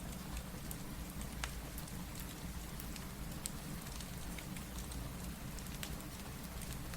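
Steady rain with a low rumble underneath, and scattered sharp pops of a crackling wood fire every second or two.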